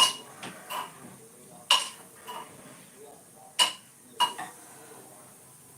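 Metal kitchen utensils clinking against steel vessels: a series of sharp metallic clinks at irregular intervals, each with a brief ring.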